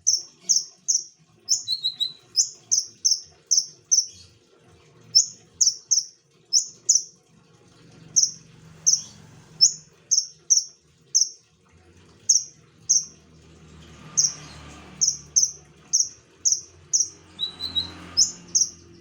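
A konin songbird calling over and over, a loud, sharp, high chip repeated about two to three times a second with brief pauses, and twice a lower quick double note.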